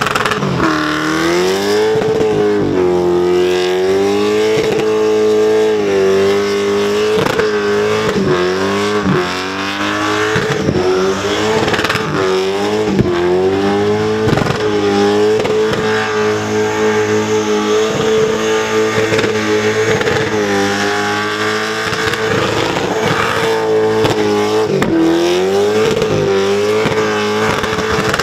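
Engine of a supercharged Holden Commodore held at high revs during a tyre-smoking burnout. It is a loud, steady high note that dips briefly and climbs back several times.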